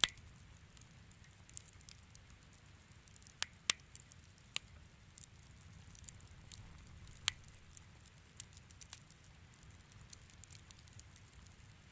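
Wood fire crackling, with irregular sharp pops and snaps over a faint low rumble of the flames; a few louder pops stand out, one right at the start and another about seven seconds in.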